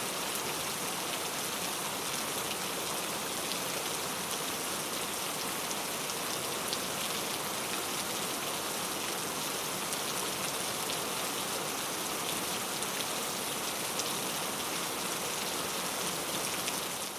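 Heavy rain falling steadily, a dense even hiss with scattered sharper drop ticks, fading out at the very end.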